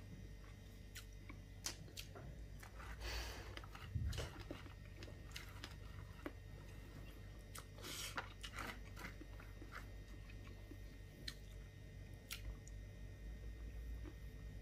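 A person chewing a mouthful of rice and fish eaten by hand, with scattered small clicks and crunches and two brief louder rustling noises about three and eight seconds in, over a steady low hum.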